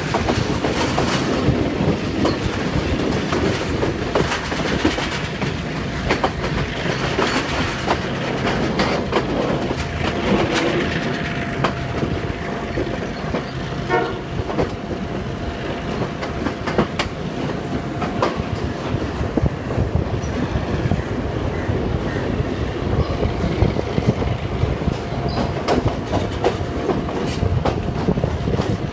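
Passenger express train running at speed, heard from a carriage window: steady running noise with the wheels clattering over the rail joints in repeated clicks.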